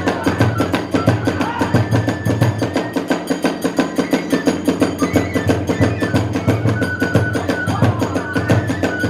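Kagura hayashi ensemble playing a fast, even beat: a taiko drum and tebyoshi hand cymbals strike steadily together while a bamboo flute holds high notes over them.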